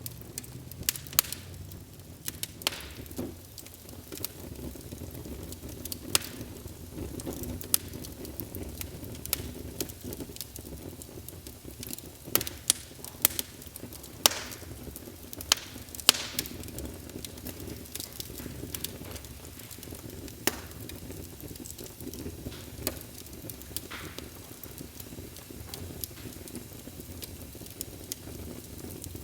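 Wood fire burning in a fireplace: a steady low rush with irregular sharp crackles and pops, thickest around the middle.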